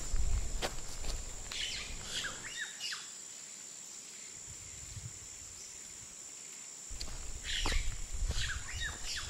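Small songbird chirping in short bursts of quick falling notes, about two seconds in and again near the end, over soft footsteps and rustling in dry leaf litter.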